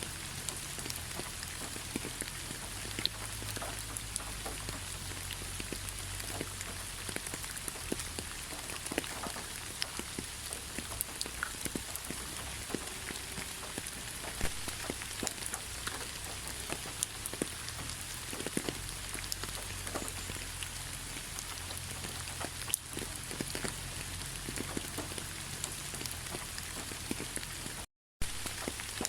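Steady rain falling, an even hiss with many separate drop hits ticking through it. It cuts out to silence for a fraction of a second near the end, then resumes.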